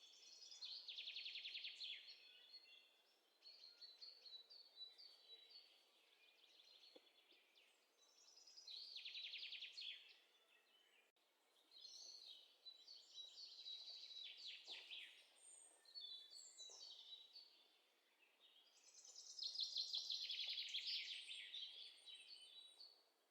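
Faint songbird song: several high trilling phrases, each a second or a few seconds long, the loudest near the end.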